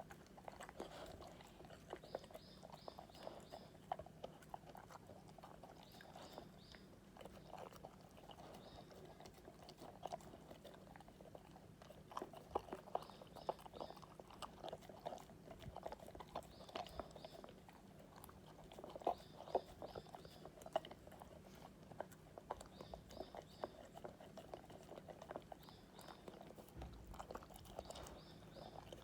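An Akita dog eating, with irregular crunching and chewing: many short clicks and crunches, some louder bites near the middle.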